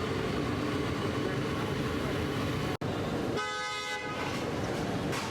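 Steady roadside traffic noise. A vehicle horn sounds once, briefly, about halfway through, just after a momentary dropout in the sound.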